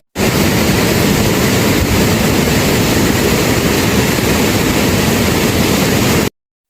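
Loud, steady roar of rushing water, as from a heavy downpour, starting and cutting off abruptly.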